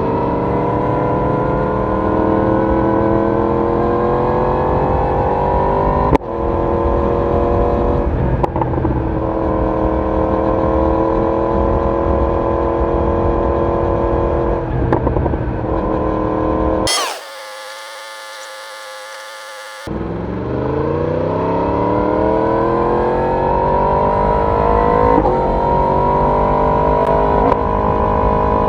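Yamaha YZF-R1 crossplane inline-four exhaust pulling through the gears, its pitch rising with each gear and breaking briefly at the upshifts, then holding steady while cruising. About seventeen seconds in, the engine sound cuts out for about three seconds, leaving only a fainter steady tone, then comes back accelerating again with rising pitch.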